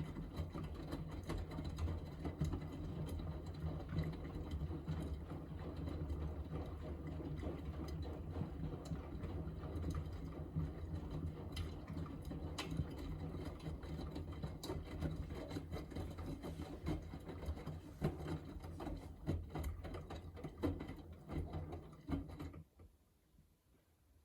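Miele Navitronic W3985 front-loading washing machine tumbling its drum in the 45° cotton main wash: a steady low motor hum with laundry and water sloshing and irregular clicks and knocks. The sound cuts off about 22 seconds in.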